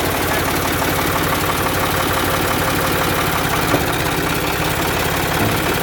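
Farm tractor engine running steadily at low speed with a rapid, even firing pulse, with one small click near the end.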